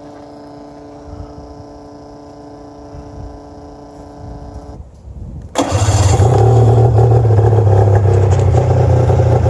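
A steady electric whine for about five seconds, then the 1997 Arctic Cat EXT 580 EFI snowmobile's two-stroke twin engine starts, about five and a half seconds in, and runs loudly and steadily.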